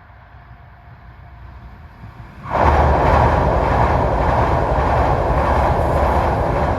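Yamagata Shinkansen bullet train passing close at high speed. A rising rumble as it approaches, then a sudden loud rush of wheels and air about two and a half seconds in that holds steady as the train goes by.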